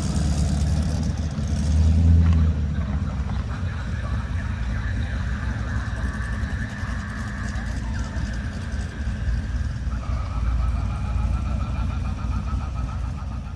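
A car engine running with a low rumble, louder in the first couple of seconds, then steady.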